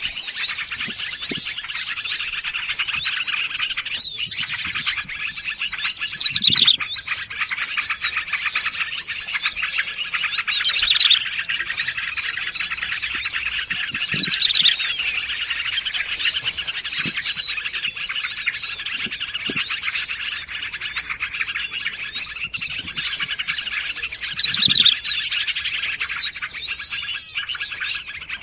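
Dense, unbroken chorus of small songbirds calling over one another, a layered bird-lure mix of yellow-vented bulbul (trucukan) chatter with prenjak (prinia), sirtu and sogon calls. A fast, high trill comes in at the start and again about halfway, and quick falling whistles recur throughout.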